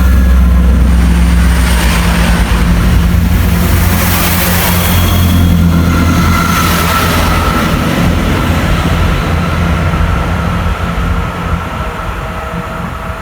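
A diesel train passing close by: a loud, low engine and wheel rumble with a faint whine partway through, fading away near the end.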